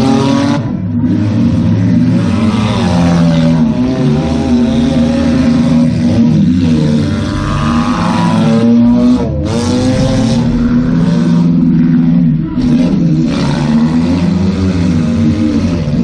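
Demolition derby car's engine revving up and falling back again and again as it is driven hard, heard from inside the stripped-out cabin, with a few brief dips where the throttle drops off.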